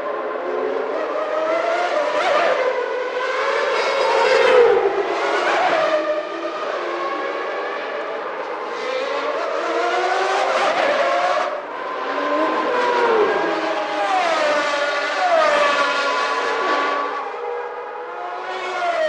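Formula One cars' high-revving 3.5-litre naturally aspirated engines, several going by one after another. Their screaming pitch climbs through upshifts and drops away as each passes, loudest about four and a half seconds in.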